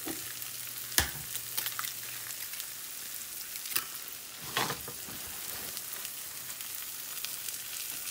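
Diced bell peppers and onions sizzling steadily in butter in a skillet. About a second in there is a sharp crack as an egg is broken on the bowl, followed by a few lighter clicks and taps as the shells are set down.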